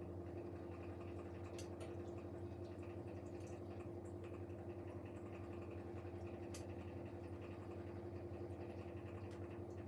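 Siemens Siwamat Plus 574 washing machine's drain pump humming steadily, pumping out the water at the end of the first rinse, with a few faint clicks and trickles.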